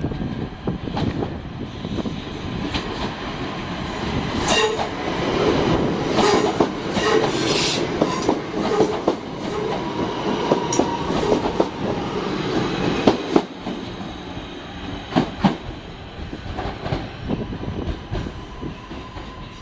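A train moving through a station, its wheels clattering over rail joints and pointwork in a long run of knocks. A thin wheel squeal comes in partway through. The clatter is heaviest in the middle and thins out toward the end.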